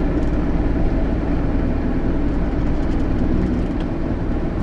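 JCB Fastrac 8250 tractor's diesel engine running steadily under heavy load while pulling a plough through tough ground.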